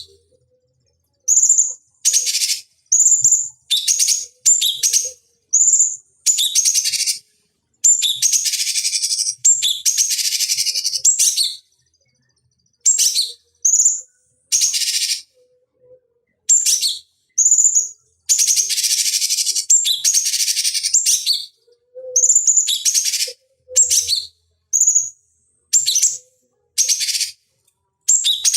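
Cucak cungkok singing: short, high calls repeated about once a second, with two longer, rapid chattering phrases, about a third of the way in and again past the middle, and clean silence between the calls.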